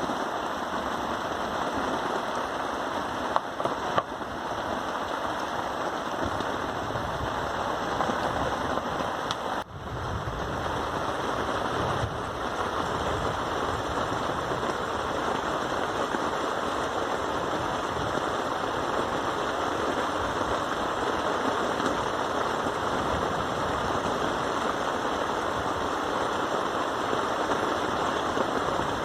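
Steady rain falling. Two sharp taps come about three and four seconds in, and the level dips briefly near ten seconds.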